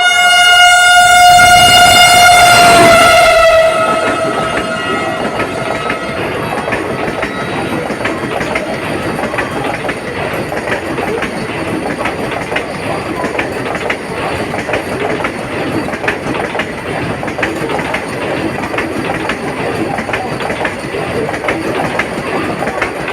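Vande Bharat Express electric train set sounding its horn as it runs through the station at speed, the horn dropping in pitch as it passes and stopping about three and a half seconds in. After that comes the steady rush of the train passing close by, with wheels clicking over the rail joints.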